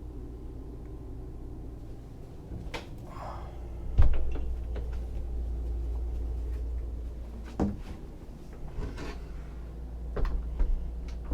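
Several knocks and clunks of a door or cabinet door on the yacht being opened and closed, the loudest about four seconds in, over a steady low hum.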